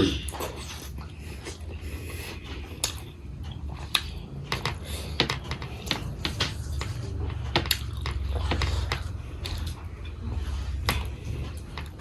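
Close-up chewing and biting: irregular mouth clicks and crunches of someone eating, over a low steady hum.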